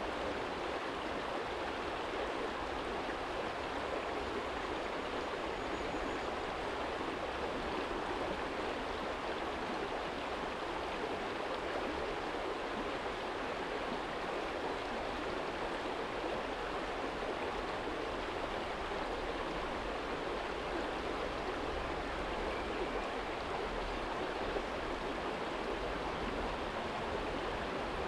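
Small shallow stream flowing steadily over a stony bed, a constant rushing babble of water, with a faint low rumble underneath.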